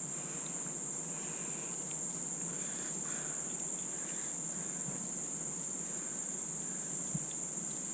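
Steady, high-pitched, unbroken trilling of an early-fall insect chorus, with a faint tap about seven seconds in.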